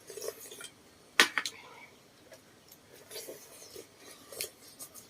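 Tableware clatter during a meal: a sharp clink of utensils on a dish about a second in, then scattered softer clicks.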